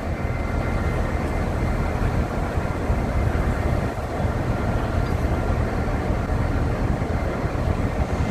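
Steady low engine rumble at a construction site, even throughout with no distinct knocks or bangs.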